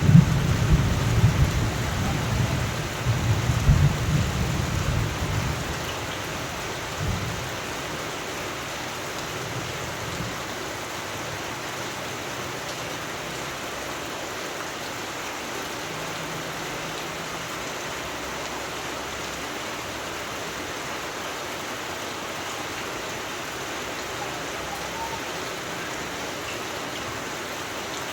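Steady rain with a low rumble of thunder that rolls and dies away over the first six or seven seconds, leaving the even sound of rain.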